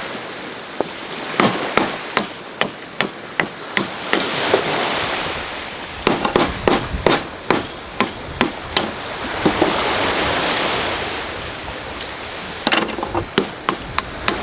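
Waves breaking and washing on the shore, the surf swelling twice, with three runs of sharp knocks a few per second, like hammering.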